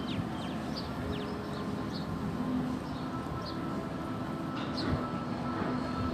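Steady low rumbling background noise with a faint hum, and short high chirps recurring every half second to a second, like small birds.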